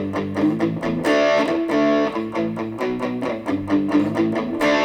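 Electric guitar played through a Positive Grid Reactor 50 1x12 combo amp, trying out an AI-generated amp tone. It is a picked riff of chords and single notes, about five pick attacks a second.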